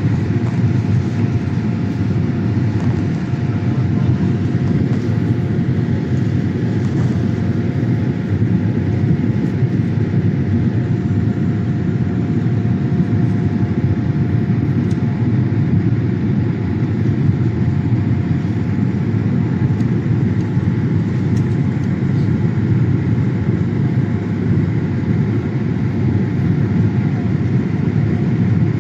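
Steady cabin noise inside a Boeing 787-8 airliner: an even low rumble of engines and airflow, with a faint steady hum above it.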